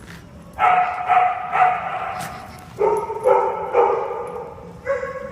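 A dog barking repeatedly: short pitched barks, about two a second, in two runs with a brief pause between them.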